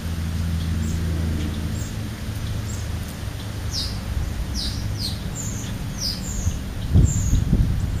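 Birds chirping: a quick run of short, high, falling chirps, roughly two a second, over a low hum that fades during the first few seconds. A few low thuds close to the microphone come near the end.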